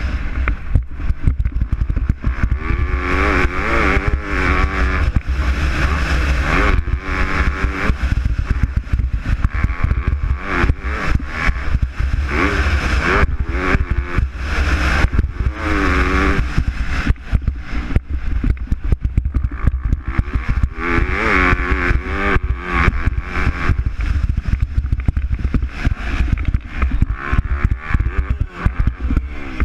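MX2-class motocross bikes racing, engines revving up and down through the gears again and again, getting louder in several swells as bikes come past.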